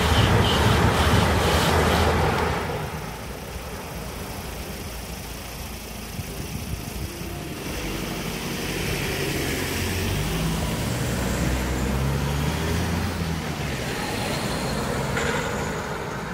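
An express passenger train rushes past at speed and is gone about two and a half seconds in. After that, road vehicles' engines run and drive over the crossing.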